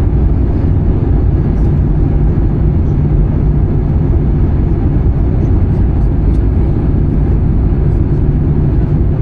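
Steady cabin noise of an Airbus A320-214 airliner: an even, deep rumble of engine and air noise with no change.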